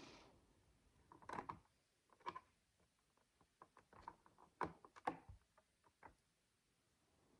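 Micro building bricks, small plastic pieces, clicking and tapping as they are handled and pressed together. The faint clicks come irregularly, in small clusters about a second and a half in, near two seconds, and between four and five seconds in.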